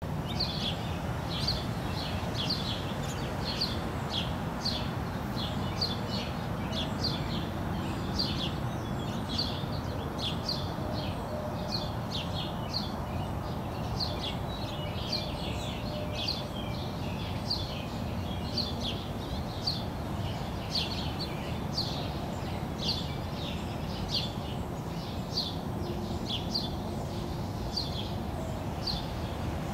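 Small birds chirping, short high chirps repeated a couple of times a second, over a steady low background rumble.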